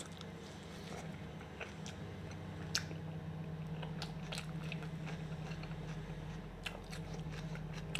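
Close-miked chewing and mouth sounds of a person eating soft bread and tomato-and-onion salad, with scattered sharp wet clicks over a steady low hum.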